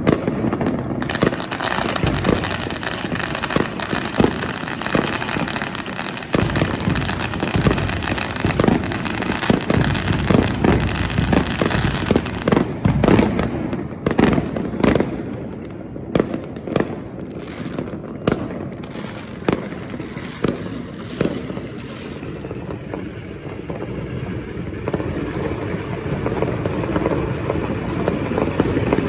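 Many New Year's firecrackers and fireworks going off: a dense barrage of bangs and crackling that thins out to scattered, spaced bangs about halfway through and grows fainter near the end.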